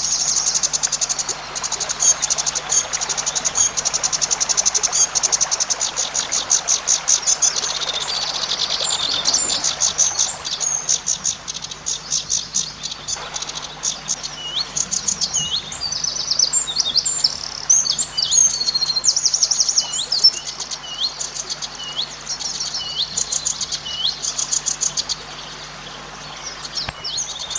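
Zitting cisticola (cici padi) singing: long, fast trains of shrill, buzzing notes with short downward-hooked chips between them. The song eases into a quieter stretch near the end, then picks up again.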